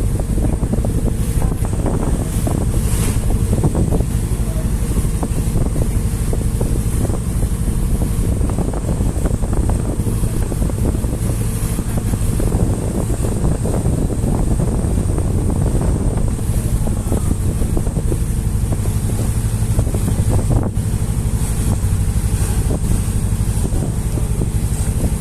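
Boat's engine running with a steady low drone while under way, with wind buffeting the microphone.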